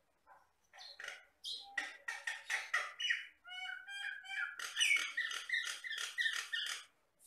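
Jalak Batam myna singing: a rapid run of varied chattering notes, a few clear whistled notes about halfway, then dense loud chatter.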